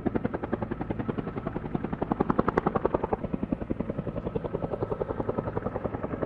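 Helicopter rotor chopping steadily, a rapid even beat of about ten thuds a second over a low engine rumble.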